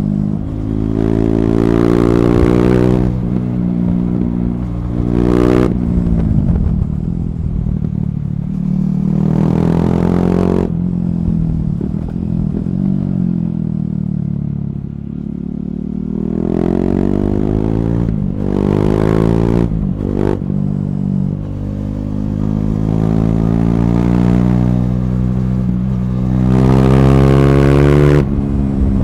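KTM Duke 390's single-cylinder engine, running through an Akrapovic slip-on and decat pipe, pulling hard through the gears several times. The pitch climbs each time and drops sharply at each shift. In the middle the rider eases off for a few seconds and the engine winds down before accelerating again.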